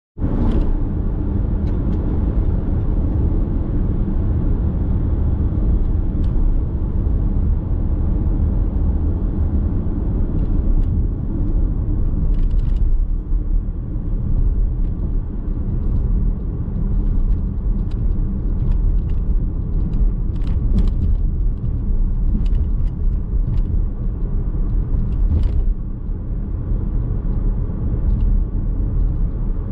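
Car running along a road, heard inside the cabin: a steady low rumble of tyre and engine noise, with scattered light ticks and knocks.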